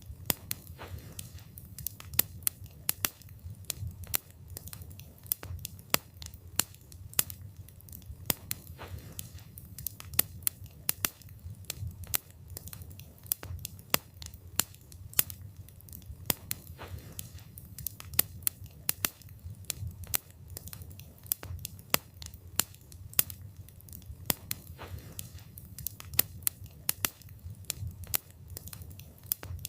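Wood fire burning, with sharp irregular crackles and pops from the burning logs, several a second, over a low steady rumble of the flames.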